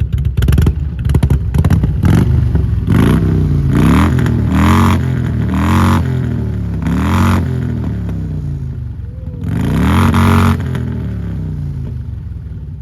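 Harley-Davidson motorcycle engine revved hard through its pipes: a run of sharp crackling pops, then about six quick throttle blips, each rising and falling in pitch.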